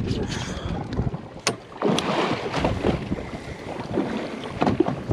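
Wind buffeting the microphone aboard a small fishing boat at sea, with water sloshing against the hull and a few sharp knocks on the boat, the first about a second and a half in and two close together near the end.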